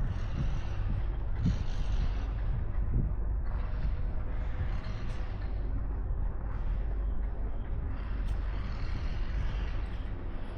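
Outdoor street ambience at night: a continuous low rumble with road traffic hissing past, swelling and fading in waves, and a few low thumps in the first three seconds.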